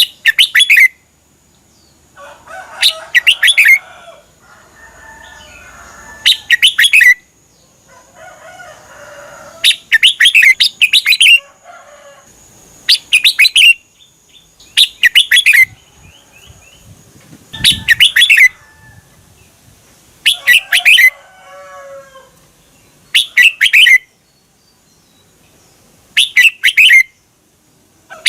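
Red-whiskered bulbul singing a short, loud phrase over and over, about every three seconds, with softer chattering calls between the phrases.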